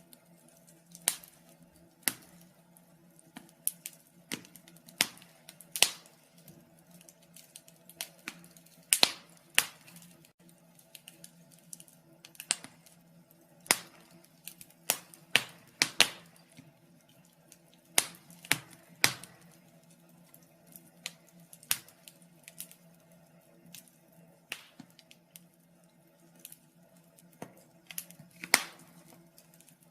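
Wood fire in a fireplace crackling, with irregular sharp pops and snaps, some much louder than others, over a faint steady hum.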